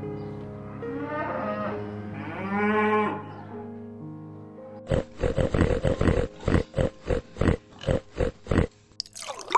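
A cow mooing: two drawn-out calls between about one and three seconds in, the second one louder. A quick run of about a dozen short pulses follows, roughly three a second, from about five seconds in to near the end.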